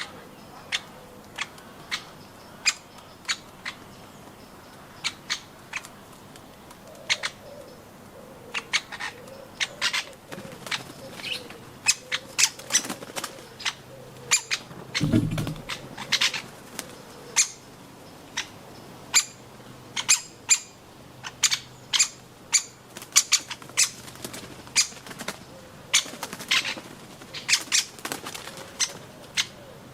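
Irregular sharp taps and knocks, a few a second, of birds pecking at nuts, with one dull thump about halfway through.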